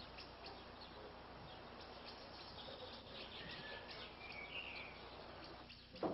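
Faint small birds chirping over a low hiss of outdoor background. A sharp knock comes right at the end.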